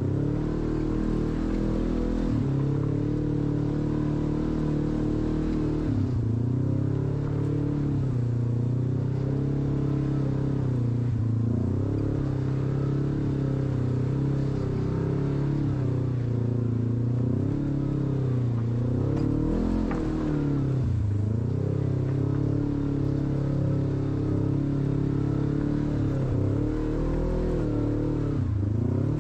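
Off-road vehicle's engine running steadily, its pitch repeatedly dipping and rising again as the throttle comes off and on.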